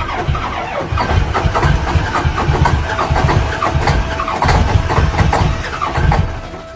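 A vehicle engine running with loud, uneven low pulses, falling away about six seconds in; a thin steady whine sounds under it.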